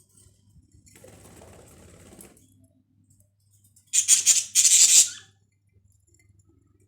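Budgerigars in a cage: a faint rustle, then two loud, harsh, hissy bursts about four seconds in, each roughly half a second long. A low steady hum runs underneath.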